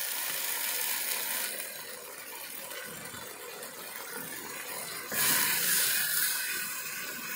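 Chickpeas, onions and spices sizzling in hot butter in a pot while being stirred with a wooden spatula. About five seconds in, the sizzle suddenly gets louder for about a second, then settles back.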